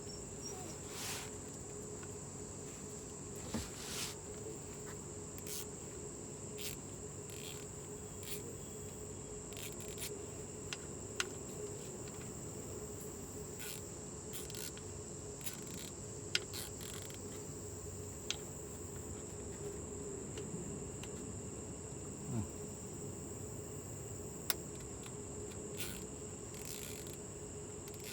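Crickets trilling in one continuous high, steady tone, with scattered sharp clicks here and there.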